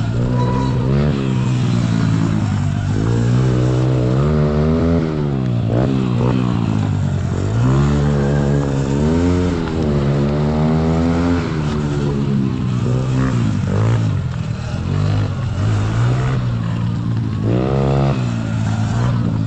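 Sur-Ron electric dirt bike's motor and drivetrain whining, the pitch rising and falling several times as the throttle is opened and closed.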